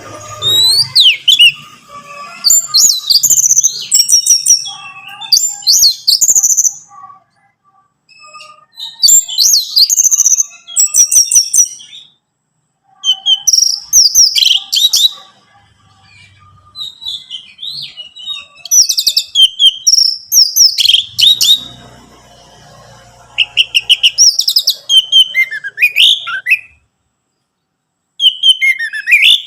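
Orange-headed thrush singing: loud phrases of quick, high, varied whistles and rapid trills, broken by short pauses of about a second.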